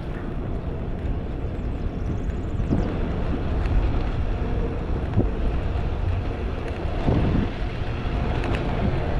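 Wind buffeting the microphone while riding a bicycle, a steady low rumbling rush.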